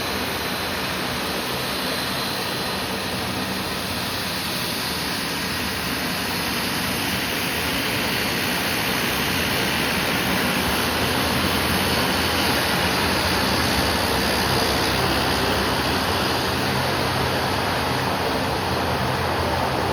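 Airliner engines running at takeoff power, heard as a steady rushing noise that grows a little louder partway through.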